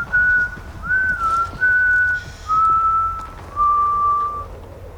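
A person whistling a slow tune: five long held notes, each sliding up into pitch, the melody stepping down lower over the last few notes.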